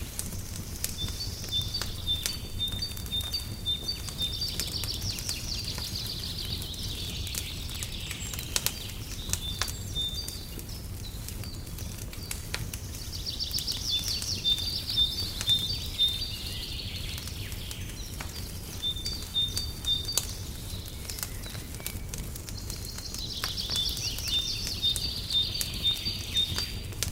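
Fireplace crackling with scattered sharp pops over a low steady rumble, while a songbird sings high phrases of trills and evenly repeated notes, three times with pauses between.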